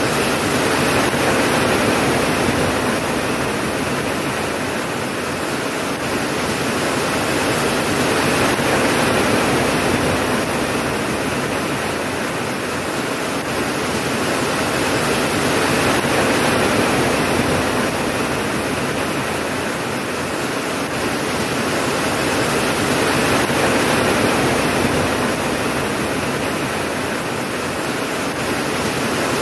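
Steady heavy rain, a dense hiss of falling water that swells and eases slowly every seven or eight seconds.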